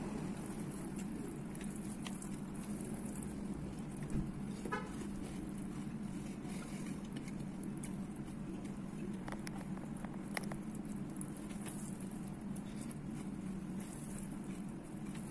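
Chewing of crunchy chocolate cereal in milk, with a few light clicks of a spoon against the bowl, over a steady low hum.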